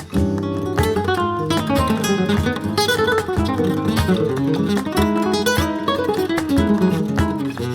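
Background music: Spanish-style acoustic guitar playing quick plucked runs and strummed chords.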